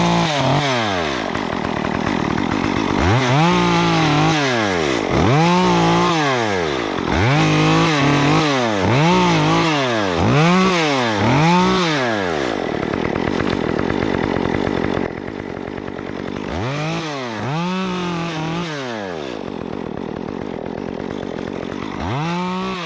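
Stihl MS 194T top-handle two-stroke chainsaw with a Ripsaw 1/4" chain conversion, cutting wood. Its engine revs up and eases off in repeated bursts, about once a second from around three seconds in until about twelve seconds in, then runs more steadily and quieter, with a few more revs near the end.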